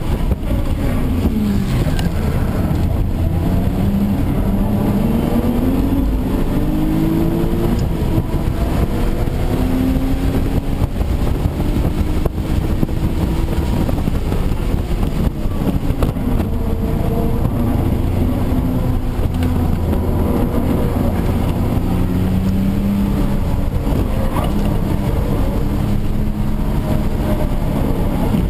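Audi B5 S4's 2.7-litre twin-turbo V6 heard from inside the cabin while lapping a track, its pitch climbing and falling several times as the revs go up and down, over steady road and wind noise.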